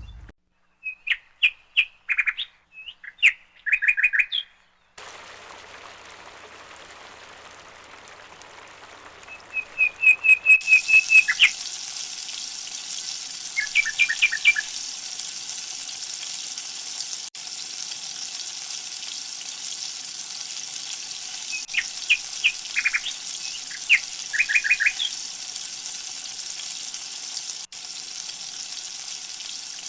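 Birds chirping in short, rapid trills and clusters of chirps, over a steady hiss that comes in about ten seconds in.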